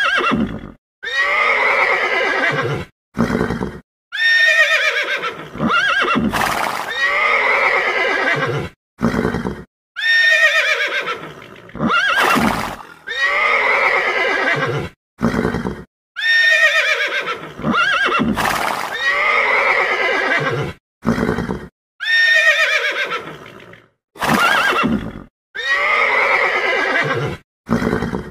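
Horse whinnies and neighs, the same calls repeating over and over about every six seconds with abrupt silent breaks between them, like a looped sound-effect track.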